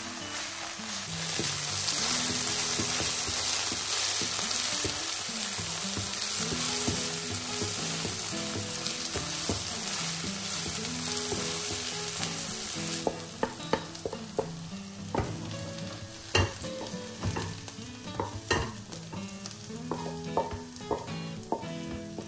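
Diced red and green peppers sizzling loudly in oil in a nonstick frying pan. About halfway through the sizzle drops away and a wooden spatula stirs and scrapes the peppers, with sharp taps against the pan.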